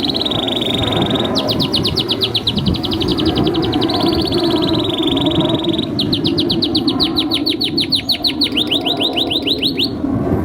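Domestic canary singing a long song: a fast rolling trill, then two long runs of rapidly repeated sweeping notes at about six or seven a second, the song stopping near the end. A steady low background hiss runs beneath it.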